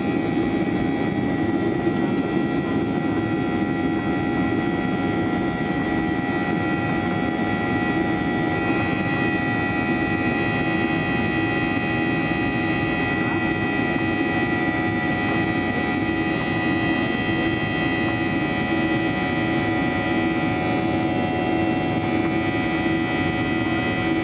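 Boeing 737-800 cabin noise in flight: the CFM56-7B engines and airflow make a steady roar with a constant high whine over it, unchanging throughout.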